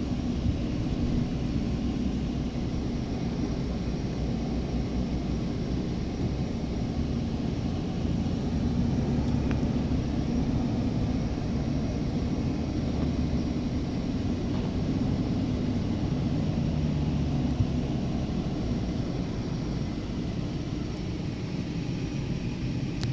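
Detroit Diesel Series 60 engine of a Western Star 4900 semi truck running steadily under way, a deep drone whose pitch shifts slightly.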